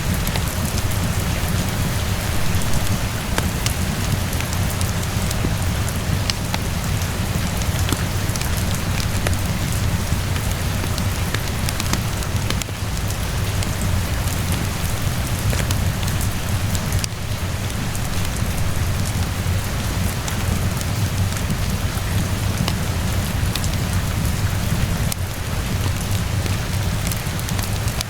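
Steady rainfall with a deep rumble underneath, and scattered small crackles and pops from a wood fire.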